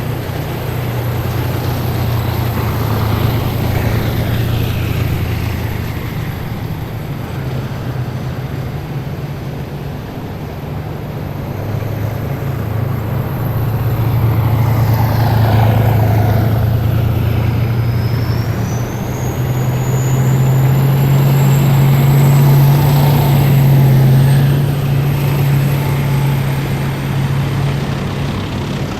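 Heavy military vehicles driving past in a column, their engines making a steady low drone that swells as each one goes by. A high thin whine rises about two-thirds of the way through and then holds.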